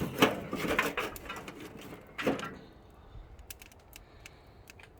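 Rustling and knocking of firewood being handled for about two and a half seconds, then a few sharp crackles from a wood fire.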